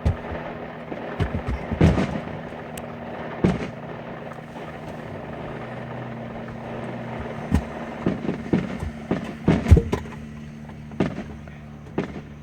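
Aerial fireworks shells bursting in a series of sharp bangs, coming thicker together about two thirds of the way in, over a steady low hum.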